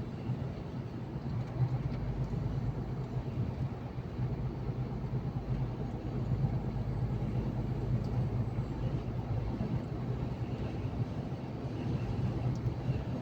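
Truck driving along at steady speed: a constant low engine drone mixed with road noise, with no change in pitch.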